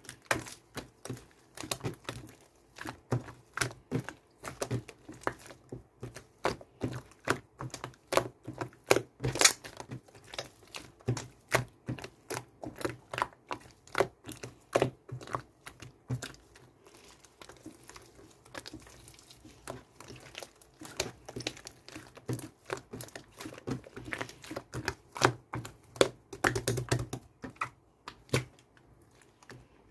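Slime being squeezed and pressed by hand, giving rapid, irregular sticky clicks and pops, several a second.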